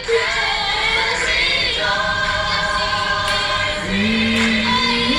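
Background music: a choir of voices singing held notes, with little or no accompaniment.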